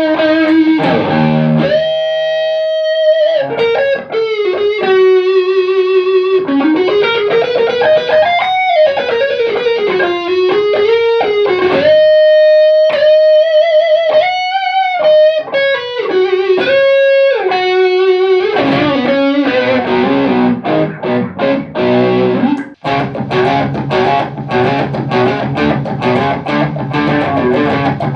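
Electric guitar playing a single-note melody with long held notes that bend and waver. About twenty seconds in it changes to fast, rhythmic strummed chords.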